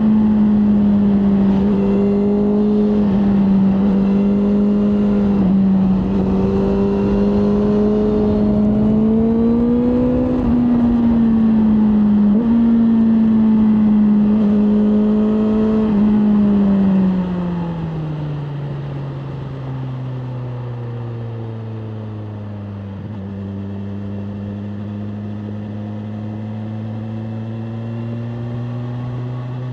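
BMW M1000R Competition's inline-four engine running under way at a steady, high pitch with a couple of brief dips. About two-thirds of the way through the revs fall, and it carries on cruising at a lower, quieter pitch.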